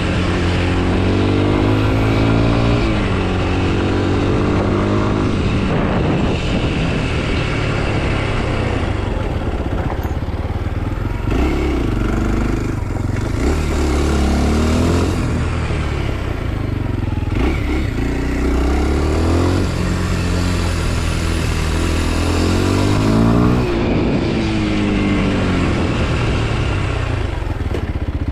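Kawasaki KLX 230 SM's air-cooled single-cylinder four-stroke engine running under way, its revs rising and falling again and again every few seconds as the bike accelerates, shifts and rolls off the throttle.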